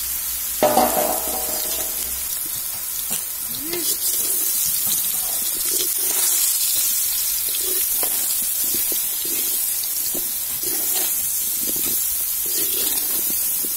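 Boiled sweet potato pieces sizzling in hot tempering oil with mustard seeds and curry leaves in an aluminium kadai: a steady hiss. A slotted ladle stirs them, scraping and knocking against the pan.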